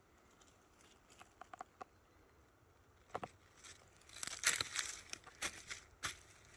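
Irregular rustling and sharp crackling: scattered clicks at first, growing denser and louder from about four seconds in.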